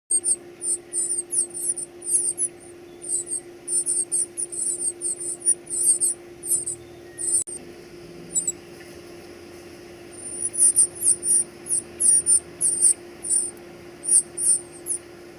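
Many rapid, very high-pitched squeaky chirps in irregular bursts, thinning out for a few seconds in the middle, over a steady low hum.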